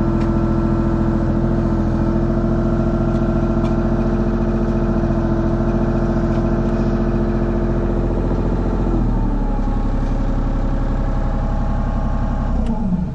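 Mini excavator's diesel engine running steadily. About nine seconds in it is throttled down to a lower pitch, and near the end it winds down as it is shut off.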